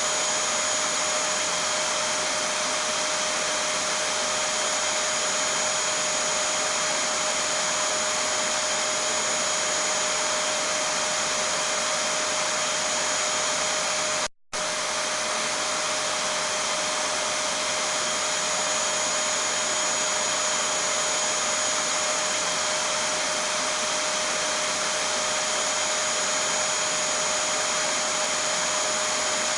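Vacuum cleaner running steadily, a constant rushing motor noise with a steady whine over it. It cuts out for a split second about halfway through, then resumes unchanged.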